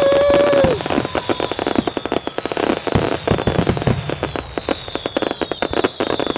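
Fireworks finale: many shells going off at once in dense, rapid crackling and popping, with high whistles slowly falling in pitch.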